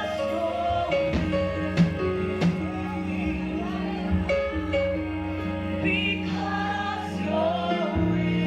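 Live gospel praise and worship music: a praise team singing with a band, with sustained voices over keyboard and bass and a few sharp drum hits.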